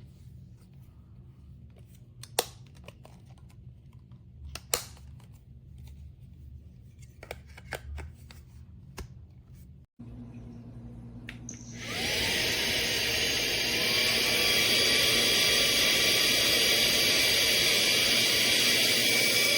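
A few light clicks and taps of handling, then about twelve seconds in the AX2V handheld vacuum's brushless motor starts with a rising whine and runs steadily and loudly, a high whine over a rush of air.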